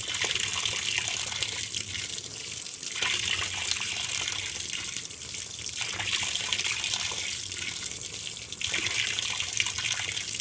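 Water pouring into a 2012 LG top-load washing machine's tub as it fills for a delicates cycle: a steady hiss that swells and eases every few seconds.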